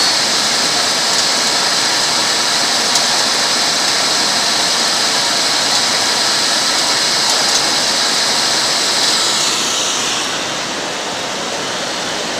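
Diamond-wheel reprofiling grinder running steadily with a loud, high grinding hiss; about ten seconds in the high hiss eases off, leaving a quieter steady rush.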